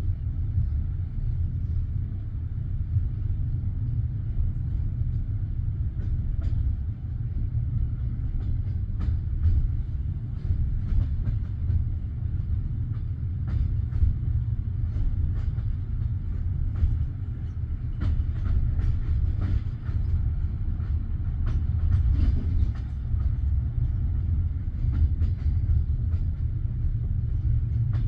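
Passenger train heard from inside a carriage: a steady low rumble with scattered, irregular clicks and knocks that grow more frequent from about six seconds in.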